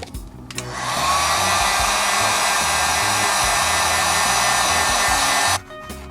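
Heat gun switched on about a second in and blowing steadily, its fan whine rising briefly as it spins up, then cut off suddenly near the end. It is warming the resin bond to speed its curing. Background music plays underneath.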